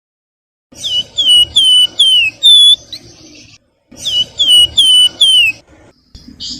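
Flamboyan (wergan Jawa) songbird singing two phrases of clear, down-slurred whistled notes, five notes in the first and four in the second, with a short pause between.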